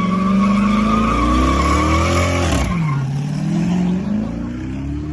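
Car engine revving hard with the tyres squealing: the revs climb for about two and a half seconds, drop sharply, then climb again.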